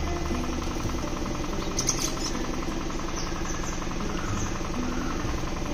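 A flock of caged birds chattering and chirping all together in a loud, steady, dense din.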